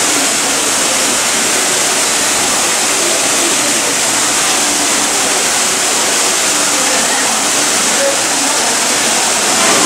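Steady rush of the indoor lobby waterfall splashing into its pool, with indistinct voices of people underneath.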